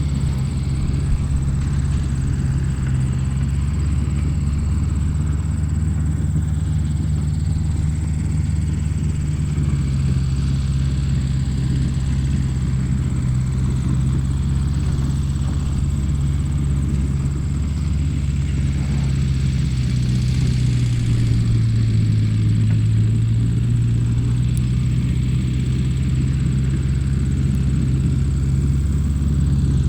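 Motor of a handmade mini tractor running steadily while hauling a heavy load of stones, with a low hum that drops slightly in pitch about ten seconds in and dips lower around twenty seconds in. A faint steady high whine runs under it.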